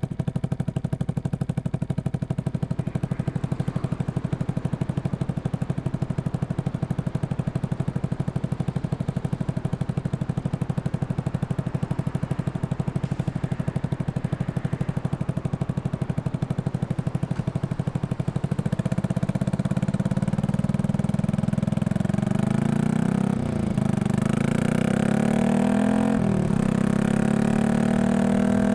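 Yamaha XSR155 single-cylinder four-stroke engine, bored up to 183cc and breathing through a Norifumi full exhaust, running at an even, steady beat, then about eighteen seconds in getting louder and climbing in pitch, with two short drops in pitch like gear changes.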